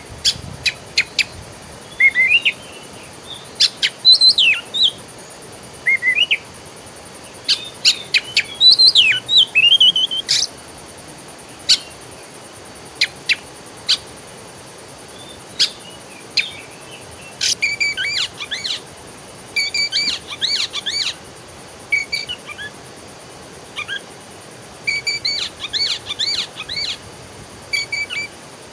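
Songbirds chirping and singing: sharp chirps and gliding whistled notes in the first half, then a run of short song phrases repeated over and over from a little past the middle.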